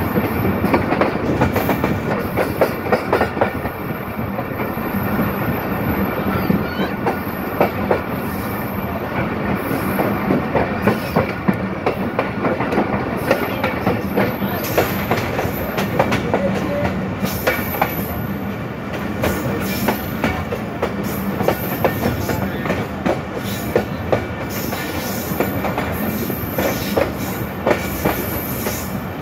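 Pakistan Railways passenger coach running along the platform as the train draws into the station, heard from close beside the coach. Its wheels give a continuous rumble and irregular sharp clacks over the rail joints.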